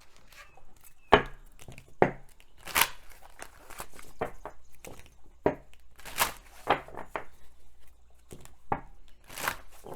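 A deck of oracle cards being shuffled and handled by hand: irregular papery swishes and sharp snaps, some louder than others.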